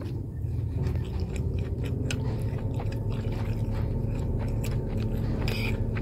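A person chewing a mouthful of beef biryani close to the microphone: small irregular wet mouth clicks over a steady low hum.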